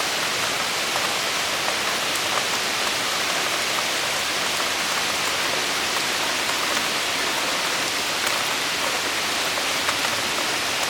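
Heavy cloudburst rain pouring down, a steady dense hiss with scattered ticks of drops striking hard surfaces.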